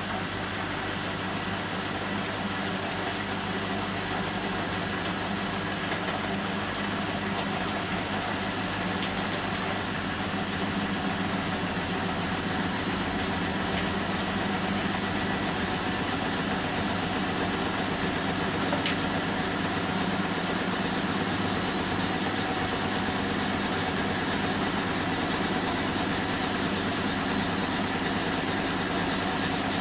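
Bosch washing machine and Bosch dishwasher running together in mid-cycle, giving a steady mechanical hum with a low drone. The washer is on its synthetics 40 °C programme.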